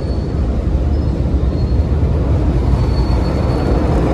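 Steady low rumbling noise heard from inside a car, growing slightly louder.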